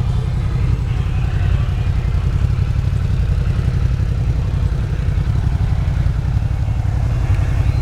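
A motor vehicle engine running steadily with a deep, pulsing rumble.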